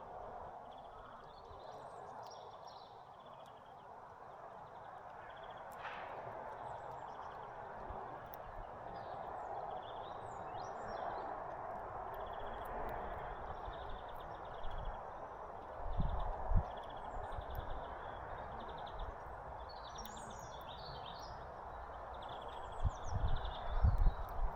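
Small songbirds chirping in short high notes over a steady background hiss, with a few dull low thumps about 16 seconds in and again near the end.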